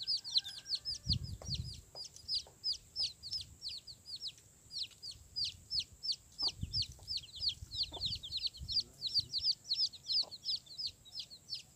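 Birds peeping: a steady stream of quick, high, downward-sliding chirps, several a second and overlapping. A dull low thump comes twice, about a second in and again midway.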